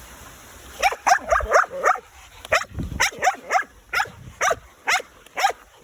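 A dog barking in a rapid, excited string, about three short barks a second, starting about a second in.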